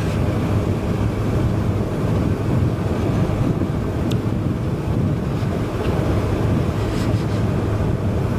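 Suzuki GSX-S1000's inline-four engine running steadily while riding, with wind noise on the microphone.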